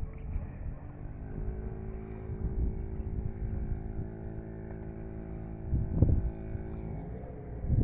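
Yamaha PW50 mini dirt bike's small two-stroke engine running at a fairly steady speed, with wind buffeting the microphone, strongest about six seconds in.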